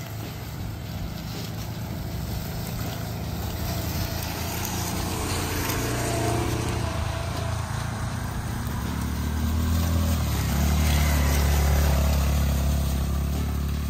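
Off-road vehicle engine running on a trail, getting louder about two thirds of the way through.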